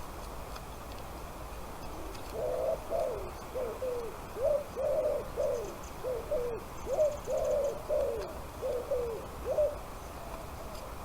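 A bird calling in a quick run of short, low, rising-and-falling notes, about two a second. The calls start a couple of seconds in and stop shortly before the end.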